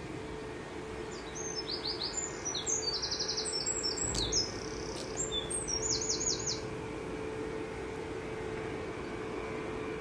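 Bird singing: quick runs of high, rapid repeated notes, starting about a second in and stopping after about six and a half seconds. A steady low hum and background hiss lie beneath.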